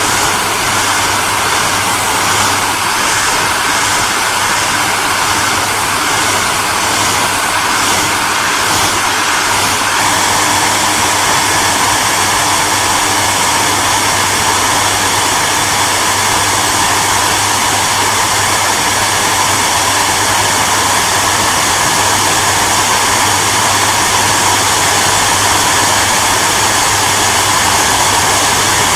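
Hairdryer running steadily: an even rushing of air over a constant motor hum, with a slight shift in tone about ten seconds in.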